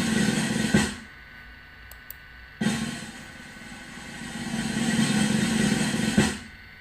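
Drums played on a drum kit: a roll that builds and ends on a hit just under a second in, then after a short gap another roll that swells up and ends on a hit about six seconds in.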